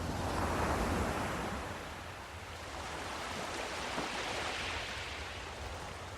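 Ocean surf washing in, a wave surging up about a second in and another around four seconds in.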